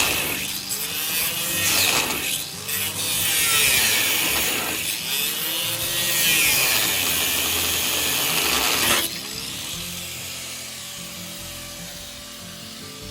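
Power grinder grinding metal in several passes, its motor pitch sagging under load and picking up again between passes. It cuts off abruptly about nine seconds in.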